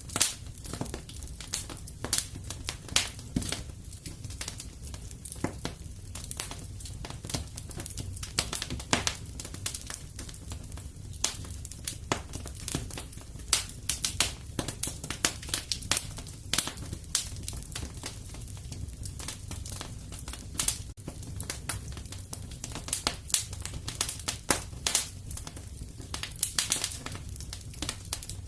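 Wood fire crackling in a fireplace: a steady low rumble of flames with frequent irregular pops and snaps.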